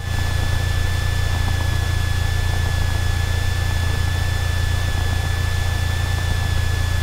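Cessna 172's engine idling on the ground, a steady low drone with hiss and a thin constant high whine over it, as heard through the cockpit audio.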